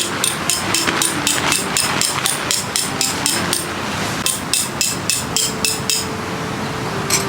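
Hammer driving metal tent pegs: quick ringing strikes about four a second, in two runs with a short pause between and one last strike near the end, over steady wind noise.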